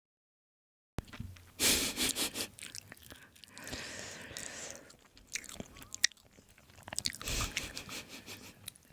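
A person biting and chewing food close to the microphone, mukbang-style: crisp, loud bites with wet chewing between them. The sound is cut out entirely for about the first second, and the biggest bites come about two seconds in and again near seven seconds.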